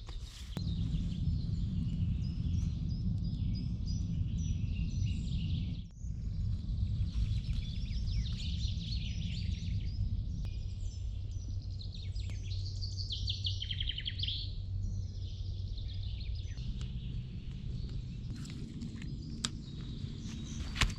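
Small birds chirping and trilling over a steady low rumble. The sound briefly drops out about six seconds in.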